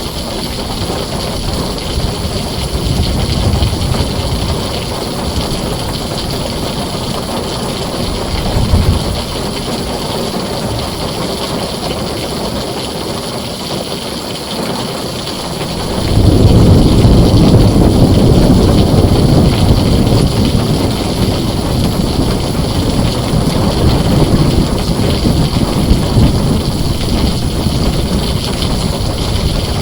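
Heavy rain drumming steadily on a tin roof, with thunder rumbling low in the background. Just past halfway a loud clap of thunder breaks in suddenly and rolls on as a long, deep rumble.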